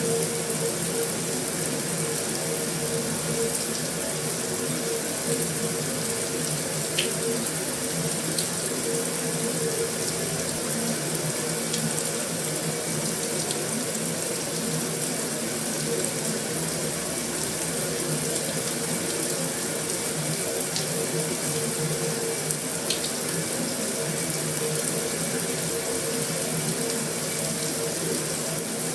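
Heavy rain falling on a metal roof: a dense, even hiss that holds steady throughout, with a few sharper drop ticks here and there.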